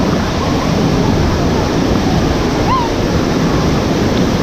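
Waterfall running: a loud, steady rush of falling water, heaviest in the low end, with no breaks.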